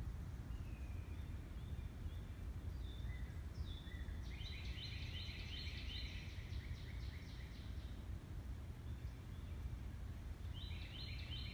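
Birds calling over a steady low rumble. A few thin whistled notes come first. About four seconds in, a fast run of repeated chirps, roughly four or five a second, lasts about three seconds, and another such run comes near the end.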